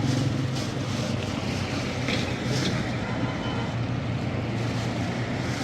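Street traffic, with a vehicle engine running steadily and a few short clicks about two seconds in.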